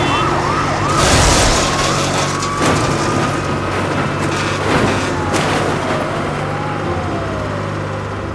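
Cartoon sound effects: a siren wailing in slow rises and falls over a steady low engine hum, with several crashes as a dump truck tips over and lands on its roof.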